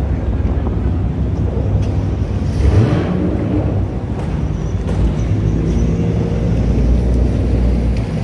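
Car engines running close by, a low steady rumble, with one engine briefly rising in pitch about three seconds in.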